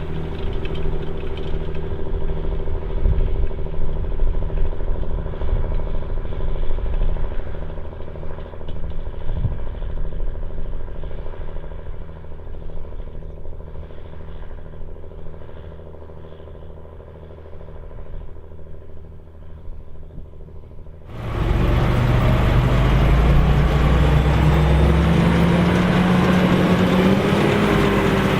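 Large farm tractor engine running steadily under field work, growing quieter as it moves away. After a sudden cut about 21 s in, a louder tractor engine close by, its pitch rising as it speeds up.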